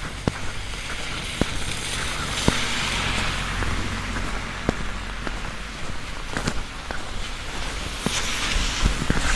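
Heavy rain falling on a large umbrella held overhead: a steady hiss with scattered sharp taps of single big drops, heavier about two seconds in and again near the end.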